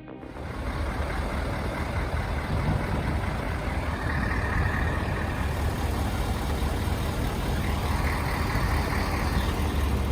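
Heavy haulage truck's diesel engine running steadily with a deep low rumble, mixed with road and mechanical noise.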